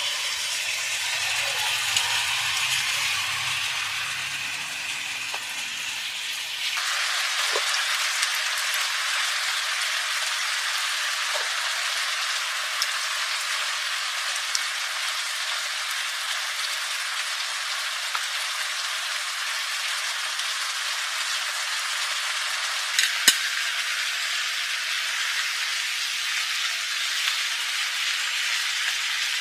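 Food frying in a pan, a steady sizzle with scattered pops and a sharp clack about 23 seconds in. The sound changes abruptly about seven seconds in, where a low hum stops.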